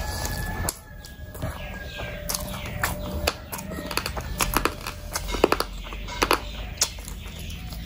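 Close-miked chewing of a mouthful of rice and curry eaten by hand: wet mouth clicks and smacks coming irregularly, with fingers squishing rice on the plate. The clicks are sharpest and most frequent about five to seven seconds in.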